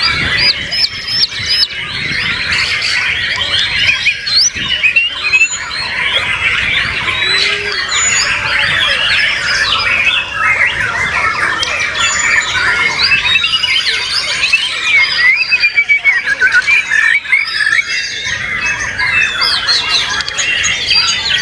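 White-rumped shamas singing: a dense, continuous tangle of overlapping fast whistles, trills and chattering phrases.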